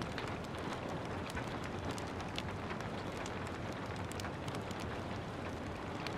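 Steady hiss of gentle rain with a wood fire crackling, many small sharp pops scattered irregularly throughout.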